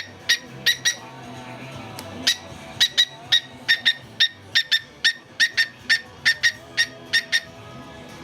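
Cockatiel giving a quick, rhythmic run of short, sharp, high chirps, often in pairs. They stop for about a second near the start, then resume over faint music.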